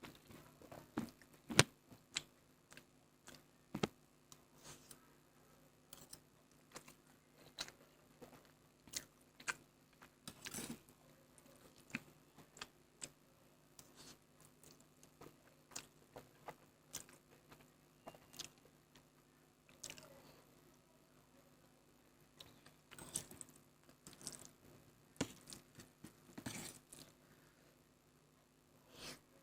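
Close-miked chewing and biting of Maggi instant noodles: irregular wet smacks and sharp clicks, some louder than others, over a faint steady low hum.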